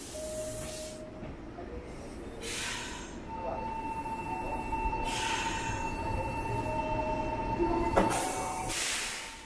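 Red Meitetsu electric commuter train drawing up and standing at the platform: a steady high whine sets in about three seconds in. Three short hisses of air and a sharp click near the end.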